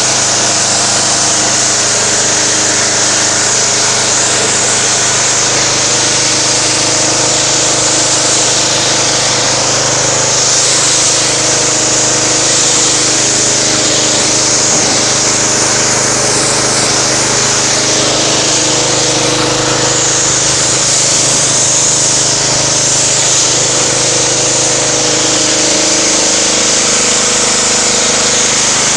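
Pressure washer running steadily, its motor humming under the hiss of a high-pressure water jet rinsing car-wash foam off a car.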